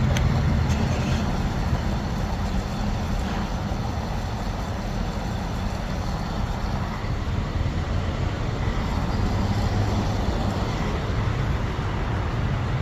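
Gasoline running from a pump nozzle into a 2011 Chevy Avalanche's fuel tank: a steady rush with a low hum, with no click-off. The nozzle now fills without shutting off early after the fix to the tank's venting.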